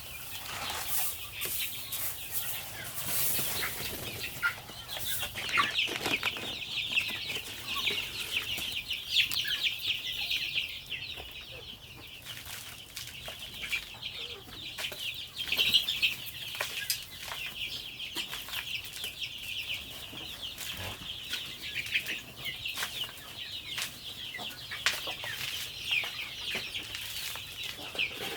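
A flock of chickens calling continuously, many short high calls overlapping, with scattered clicks and scuffles among them.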